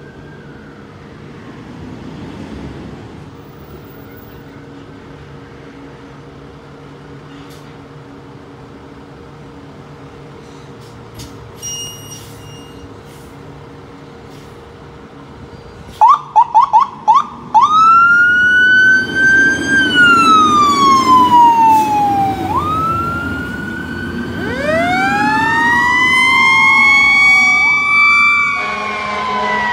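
Fire engine sirens. A low vehicle rumble comes first; about two-thirds of the way in come a few short, loud chirps, then a wail that rises and falls. Near the end a second siren winds up, rising under the first.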